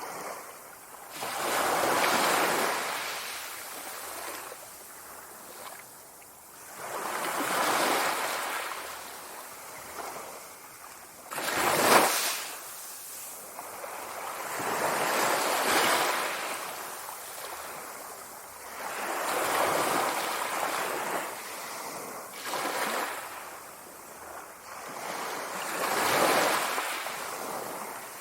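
Ocean waves breaking on the shore, each surge swelling and washing back about every four to five seconds, with one sharper, louder crash about twelve seconds in.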